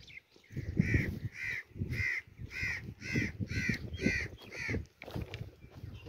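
A bird calling in a run of about eight short, evenly spaced calls, roughly two a second, that stop about five seconds in.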